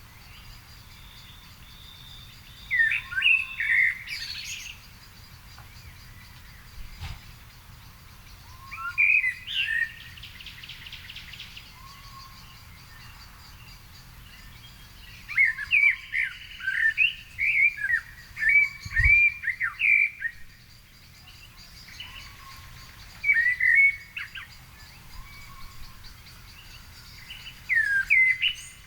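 Songbirds singing in garden evening chorus: short phrases of quick whistled, sweeping notes come in bursts every few seconds, the longest run of song about halfway through, over a faint steady high-pitched note in the background.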